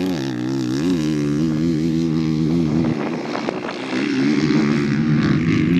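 Motocross bike engine running, its note rising and falling repeatedly as the throttle is worked. It drops back briefly about three seconds in, then comes back stronger and steadier.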